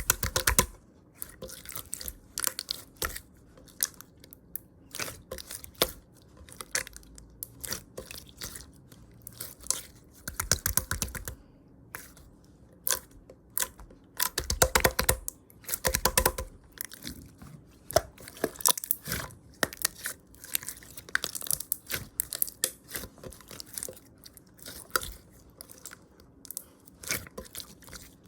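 Chewing a chewy lemon candy: sticky, crackling mouth sounds in irregular bursts with short pauses between.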